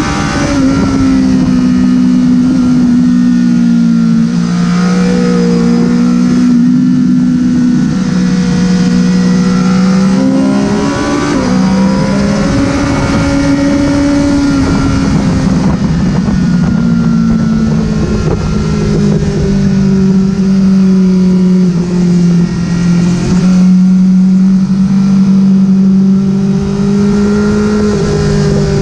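Honda CBR1000RR's inline-four engine running hard at high revs, its pitch rising and falling with the throttle and jumping in steps with gear changes, with brief breaks in the note a couple of times.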